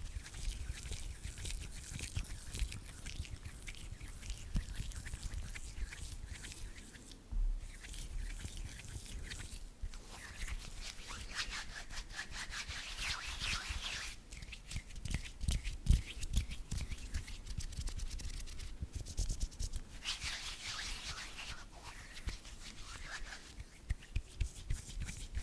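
Hands rubbing body lotion into the skin, a crackly, wet rubbing that comes in stretches with brief pauses.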